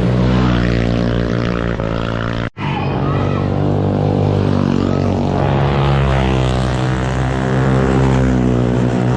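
Motorcycle engine running while riding, its pitch rising and falling gently with engine speed, over wind and road noise; the sound drops out abruptly for an instant about two and a half seconds in.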